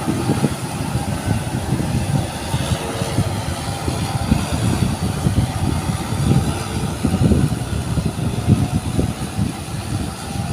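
Tractor engine running steadily while it works.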